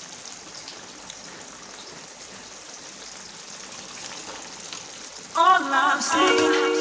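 Curry gravy sizzling steadily in a steel kadai on the gas flame, an even frying hiss. About five seconds in, music with a wavering melody comes in over it and is louder.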